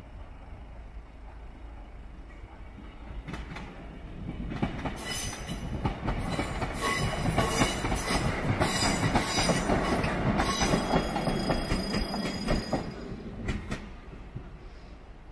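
GWR Class 150 Sprinter two-car diesel multiple unit passing over a level crossing, its wheels clattering over the rail joints and crossing with a high squeal from the wheels. It builds from about four seconds in, is loudest in the middle and fades near the end.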